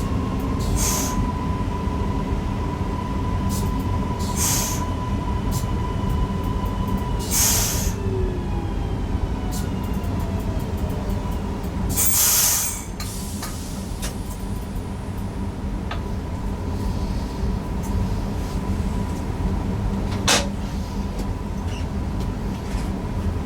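Newag Impuls EN63 electric multiple unit running, heard from the driver's cab: a steady rumble with a constant whine, and a whine falling in pitch about eight seconds in. Short sharp hissing knocks break through every few seconds, the longest about twelve seconds in.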